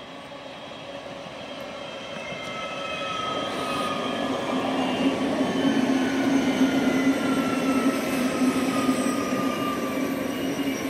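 PKP Intercity Pendolino (ED250) electric high-speed train pulling into the station. It grows louder over the first few seconds, with a steady low hum and slowly falling whines as it slows to a stop.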